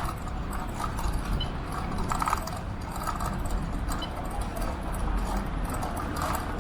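Electric bike ridden along a road: steady wind and road rumble, with light rattles recurring about once a second.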